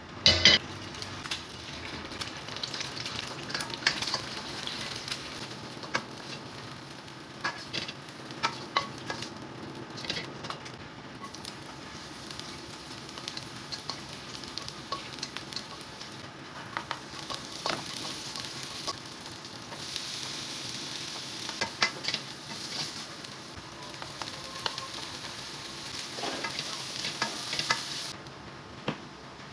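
Food frying in hot oil in a nonstick wok, a steady sizzle, while a silicone spatula stirs it and scrapes and taps against the pan in scattered sharp clicks. A loud burst of crackling comes just at the start.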